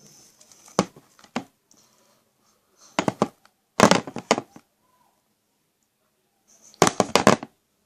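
Homemade slime, still sticky and wet from a dip in borax water, being squeezed and pulled by hand, making clusters of wet pops and crackles: a few about a second in, a longer run around three to four seconds in, and another near the end.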